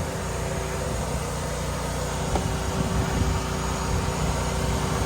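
A steady, low mechanical hum like an engine idling, with a constant tone and no change in level.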